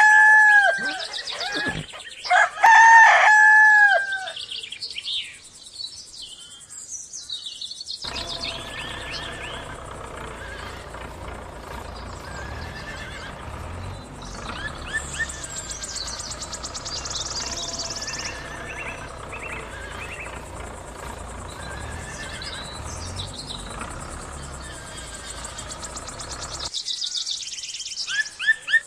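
A rooster crowing loudly twice in the first few seconds. After a short pause comes a long, quieter stretch of small birds chirping over a low hum, which stops shortly before the end.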